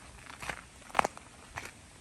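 Hiker's footsteps crunching on a forest trail, a step about every half second, with the sharpest crunch about a second in.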